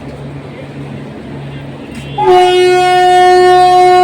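Indian Railways locomotive horn giving one long, steady blast that starts about two seconds in, a departure warning from a train pulling out of the station. A steady low hum lies beneath it.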